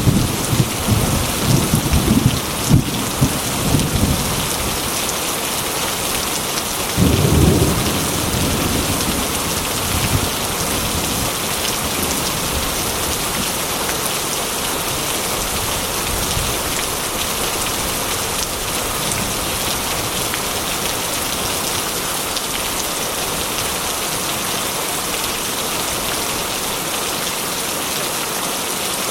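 Steady heavy rain with thunder: a rolling rumble with several cracks over the first four seconds, another clap about seven seconds in, then rain alone.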